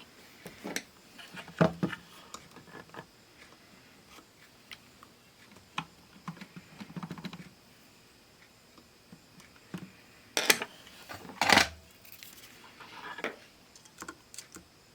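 Irregular clicks, taps and clatter of small hard objects being handled, with two louder knocks about ten and a half and eleven and a half seconds in.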